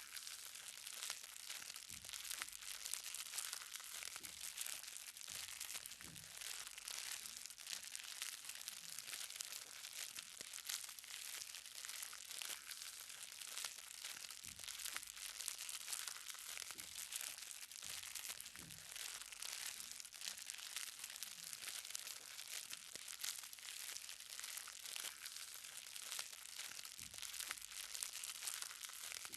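Light rain: many small drops pattering on the ground in a dense, even crackle of fine ticks.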